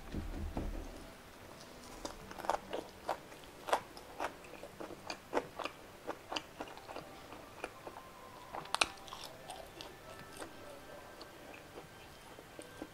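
Close-miked chewing of crispy Korean fried chicken: a run of short crunches, the loudest about nine seconds in, thinning to softer chewing near the end.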